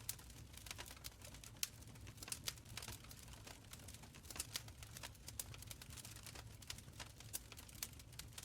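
Fire crackling in a stone fireplace: faint, irregular sharp pops and snaps, several a second, over a steady low rumble.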